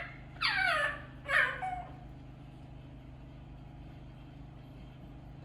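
Two short meow-like animal calls, each falling steeply in pitch, in quick succession within the first two seconds, over a steady low hum.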